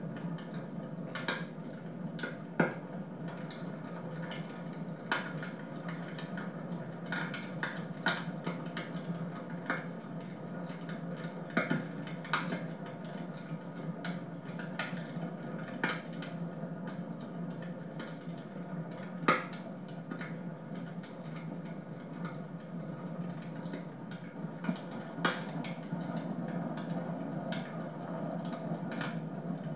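Wood fire burning in a fireplace, crackling with irregular sharp pops over a steady low rush, a couple of the pops much louder than the rest.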